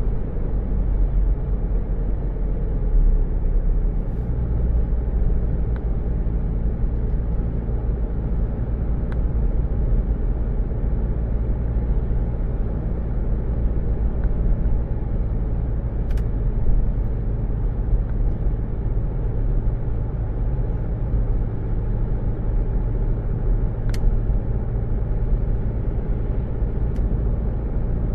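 A car's engine and road noise making a steady low rumble, with a couple of faint clicks.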